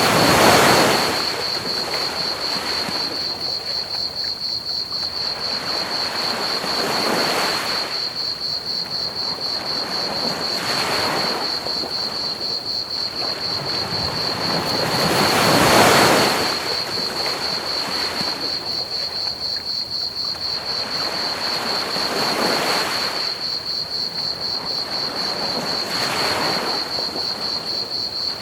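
Ocean waves washing onto a beach every few seconds, the two biggest near the start and about halfway through. Under them runs steady, rapid cricket chirping and a constant hiss of pink noise.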